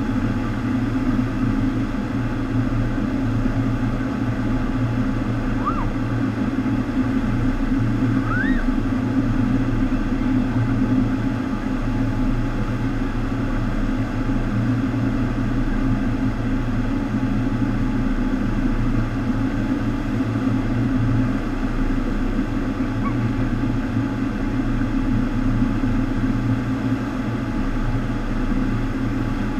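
FlowRider sheet-wave machine running: a steady rush of water pumped up over the wave surface, over a constant low hum.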